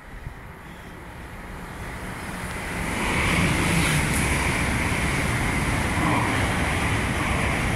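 Hitachi Intercity Express Train passing through the station at speed. The noise of the wheels on the rails builds over the first three seconds, then holds steady and loud with a low rumble and a hiss as the carriages go by.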